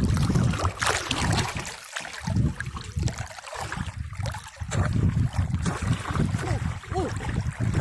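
Water splashing and sloshing around a small fishing boat in floodwater, coming and going unevenly, with a short voice-like sound near the end.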